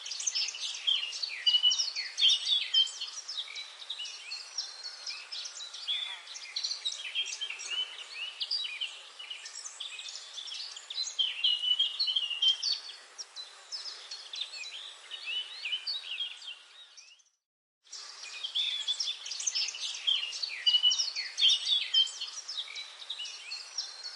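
Forest bird chorus: many birds chirping and singing at once in dense, overlapping calls. The sound cuts out completely for a moment about two-thirds of the way through, then the chorus resumes.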